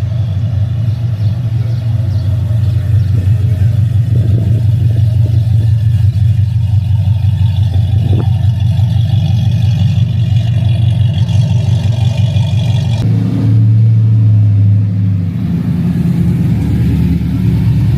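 Car engine running with a steady low rumble. Its note changes about two-thirds of the way through.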